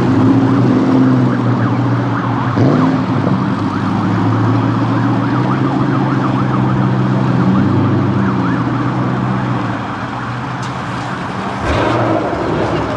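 A supercharged 4.6-litre V8 of a 2004 Mustang GT running steadily at low revs, its pitch wavering slightly. There is a brief knock near the end.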